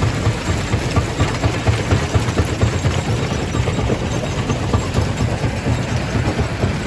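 Quarry primary rock crusher running: a steady heavy low rumble with a dense, irregular clatter of knocks from stone being broken.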